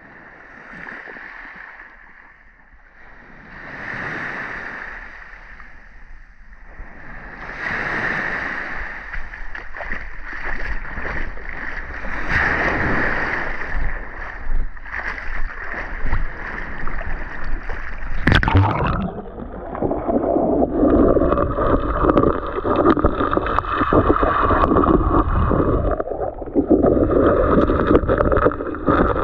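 Sea waves washing onto the shore in surges every few seconds, growing louder. About two-thirds of the way through a sharp click, then the sound turns muffled and bubbling as the microphone goes under the water.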